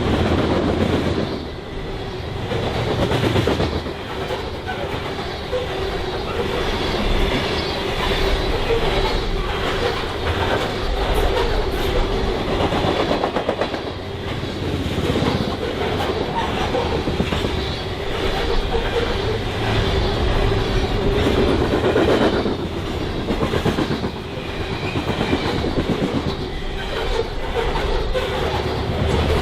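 BNSF freight train cars rolling past, their wheels clicking rhythmically over the rail joints, with a steady tone running under the rumble.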